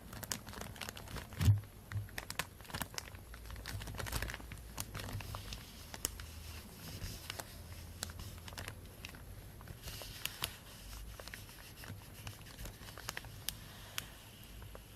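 Plastic bag crinkling and rustling in close, irregular crackles, with one soft thump about one and a half seconds in.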